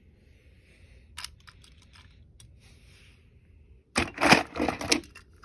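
Plastic toy trains being handled: a few faint clicks and taps, then a louder burst of clattering and rattling about four seconds in.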